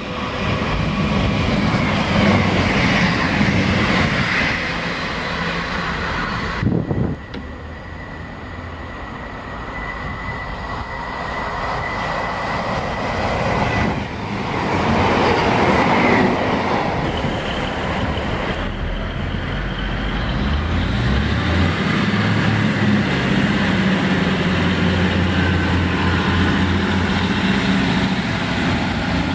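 Diesel multiple-unit trains running through a station, with rumbling wheel and rail noise, a thin steady squeal between about 7 and 13 seconds, and from about 21 seconds a steady low diesel engine note. The sound changes abruptly around 7 and 19 seconds, as at cuts between clips.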